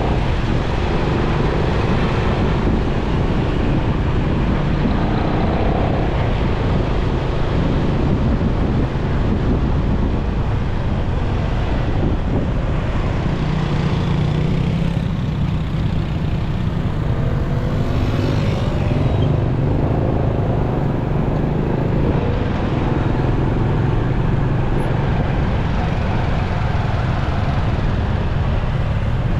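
Motorcycle engine running steadily on the move in heavy city traffic, with road and wind noise and other vehicles around it; the engine note shifts in pitch about halfway through.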